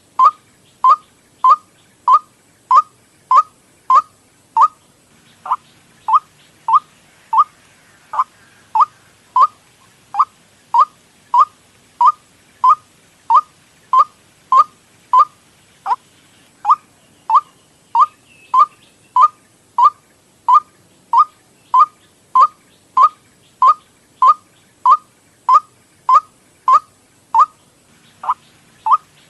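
White-breasted waterhen lure call: a short, loud call that drops in pitch, repeated evenly about every 0.6 s, with a brief break three times.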